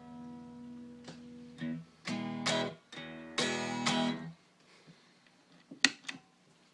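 Electric guitar played through a Madbean Laserwolf DIY pedal, a phaser, delay and overdrive in one unit: a ringing chord fades, then several strummed chords ring out. A quiet gap follows with a few sharp clicks.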